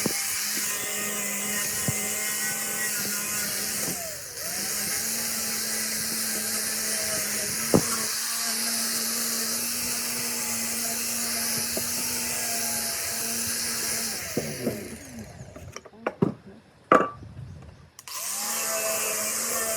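Electric power tool running steadily at one pitch, with a brief dip about four seconds in; it is switched off and winds down with a falling pitch, a few knocks follow, and it starts up again near the end.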